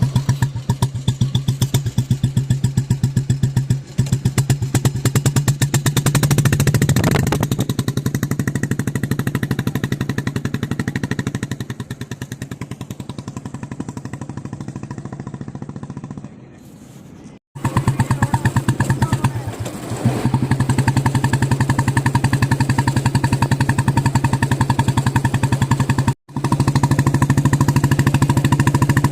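Royal Enfield Bullet single-cylinder four-stroke engine running with an even, steady thump of exhaust beats. It swells briefly about seven seconds in, then settles lower before picking up again, and cuts out abruptly twice.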